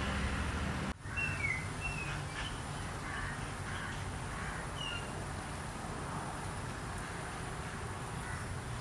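Outdoor ambience: a steady low background rumble with a few short bird calls, most of them in the first few seconds after a brief drop-out about a second in.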